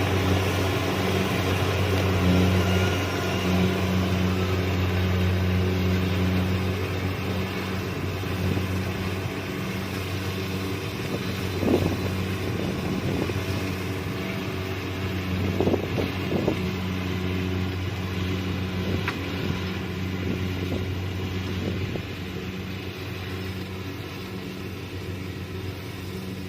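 Kubota DC-70 Plus combine harvester's diesel engine and threshing machinery running steadily, with a few short knocks partway through. The sound grows gradually fainter toward the end.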